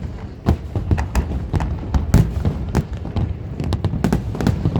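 Aerial fireworks bursting in quick, irregular succession: several sharp bangs a second over a continuous low rumble of booms.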